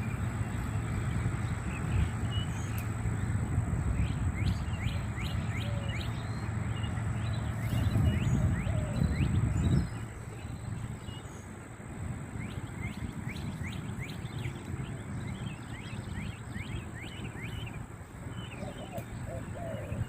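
Outdoor ambience: small birds chirping in many short, quick calls, over a low rumble that cuts off suddenly about halfway through.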